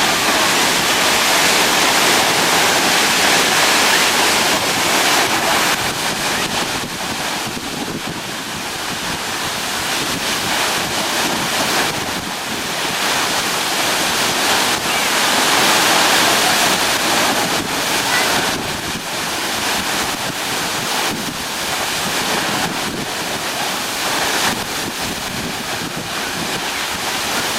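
Steady rushing of white water in a river, a continuous hiss with the loudness swelling and easing a little.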